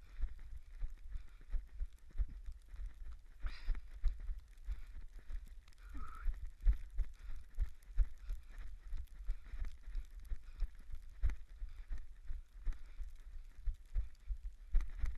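A runner's footfalls in snow, mixed with juggling-ball catches, make a quick steady rhythm of low thumps. Storm wind rumbles on the camera microphone.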